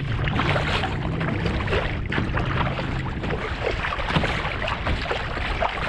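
Kayak being paddled on choppy water: water splashing and sloshing against the hull with paddle strokes, under wind buffeting the microphone.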